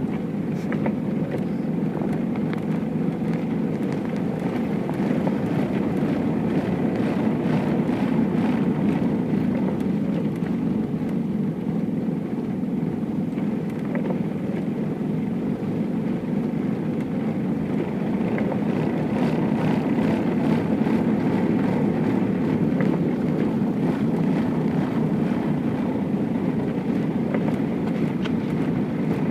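Steady vehicle rumble heard from inside a car's cabin while it travels slowly in snowy traffic.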